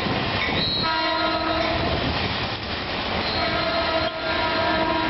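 Caltrain commuter train passing at speed with a steady rumble and wheel noise. Its multi-note chord horn sounds a short blast about a second in, then a longer one from past the middle.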